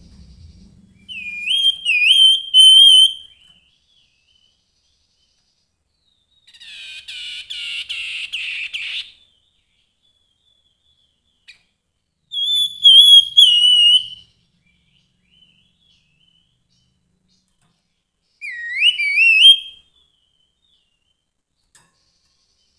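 Grey-headed babbler singing: three loud whistled phrases of quick rising, slurred notes, spaced several seconds apart, with a rapid harsh chatter between the first two.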